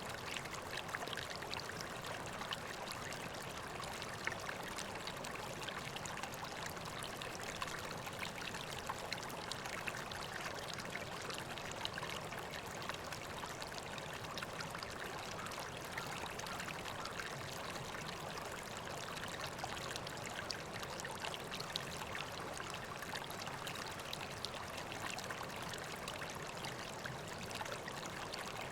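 River water flowing steadily over stones, a constant babbling rush dotted with small splashes and trickles.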